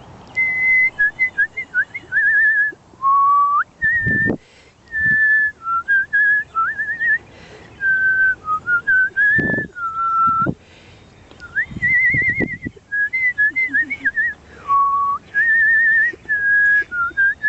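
A person whistling a string of short cardinal-like call phrases to draw the birds out: held notes, upward slides and quick warbling trills with pauses between. A few low thumps can be heard among them.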